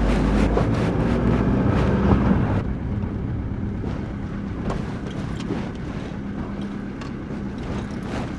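Vehicle driving, with steady engine hum and road noise; it gets quieter after about two and a half seconds.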